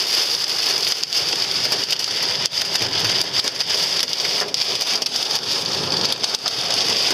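Heavy rain and hail beating on a car's roof and glass, heard from inside the car: a dense, steady patter scattered with sharp hits.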